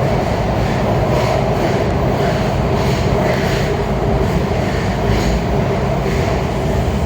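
Kawasaki 7000-series Metrorail subway car running between stations, heard from inside the car: a steady loud rumble and rail noise.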